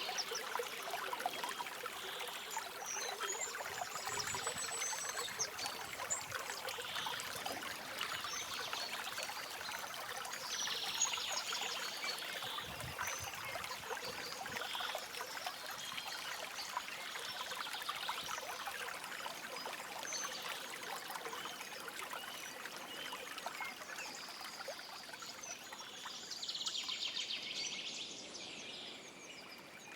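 Stream running and trickling steadily, with songbirds calling now and then over it, short high trilled phrases every few seconds, the clearest near the end.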